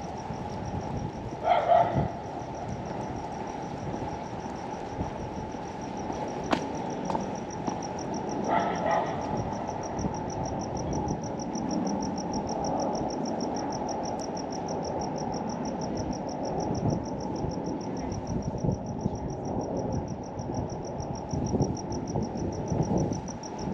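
Crickets chirping in a steady, fast-pulsing high trill over a low outdoor rumble, with two brief louder calls about two and nine seconds in.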